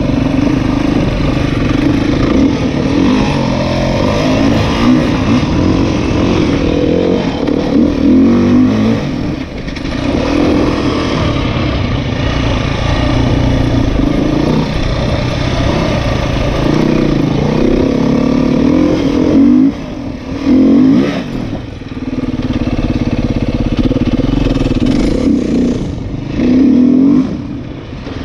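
Dirt bike engine running hard on an off-road trail, revving up and down with the throttle and dropping off briefly a few times as the rider lets off.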